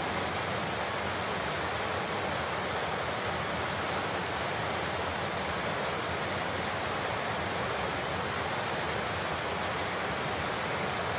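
Large waterfall rushing steadily: an even, unbroken roar of falling water with no changes.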